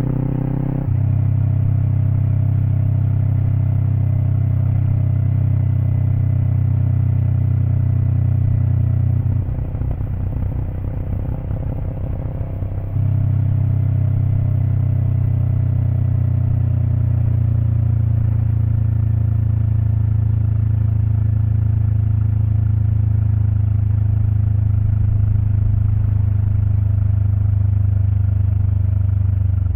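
Kawasaki Eliminator SE's parallel-twin engine running through a BEAMS Power Header W exhaust, heard close to the muffler. The pitch climbs and then drops with a gear change about a second in, followed by a steady pull. From about nine to thirteen seconds it goes off throttle with a rougher, quieter note, then comes back on throttle and holds steady.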